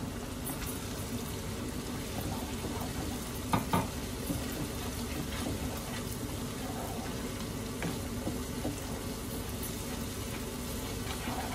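Onion, ginger-garlic and tomato tadka sizzling in butter in a nonstick frying pan as a spatula stirs it, over a steady low hum. Two sharp knocks about three and a half seconds in.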